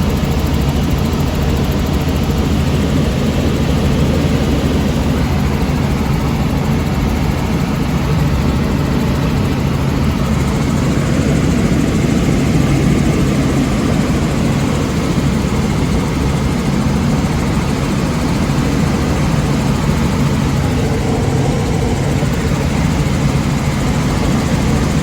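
Helicopter running steadily, a continuous engine and rotor drone with steady low tones and no change in pitch.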